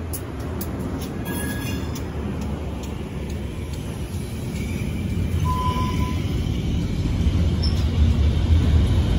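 GE B23-7 diesel locomotive passing at close range, its engine running, followed by freight cars rolling over the crossing. The wheel and rail noise grows louder over the second half, with a few sharp clicks near the start.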